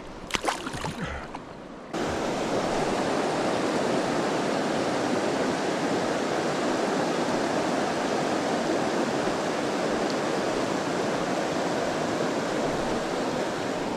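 River water rushing in a loud, steady roar that starts abruptly about two seconds in. Before it come a few sharp knocks and clicks of handling.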